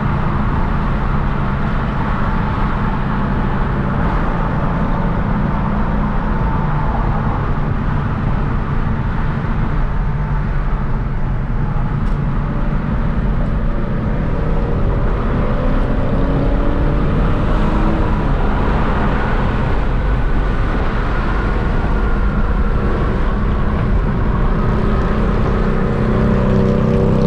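Hyundai Genesis Coupe 3.8's V6 engine and road noise while driving, a steady drone with the engine note rising a couple of times as the car accelerates.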